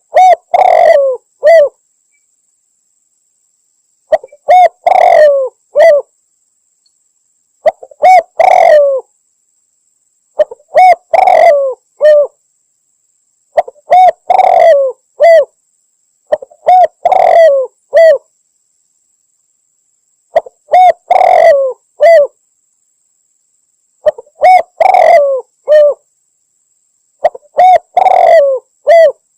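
Spotted dove (tekukur) cooing, given as a female calling a male, in a lure call for hunting doves. Loud phrases of a few coos each repeat about every three to four seconds.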